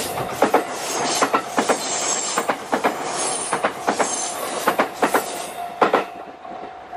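A JR East E257 series limited-express electric train passing, its wheels clacking over rail joints in quick pairs about once a second. The sound fades as the last car goes by, about six seconds in. A level-crossing warning bell rings steadily underneath.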